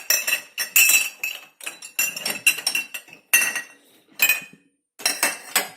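Crockery and cutlery clinking and knocking together as dishes are shifted about in a loaded dishwasher rack: a rapid, irregular run of sharp ringing clinks, with a short pause about four and a half seconds in.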